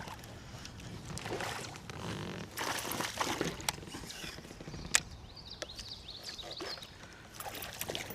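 Water splashing and dripping around a kayak while fishing gear is handled, with scattered knocks and one sharp click about five seconds in.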